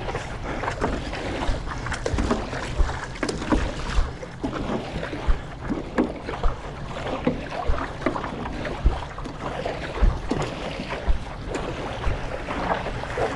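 Stand-up paddleboard paddling: paddle strokes and water splashing about once a second, over a steady wash of water and wind noise on the microphone.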